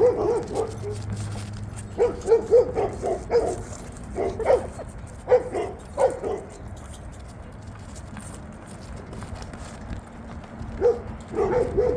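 A dog barking in quick runs of several barks, then a quiet stretch, then one more run near the end.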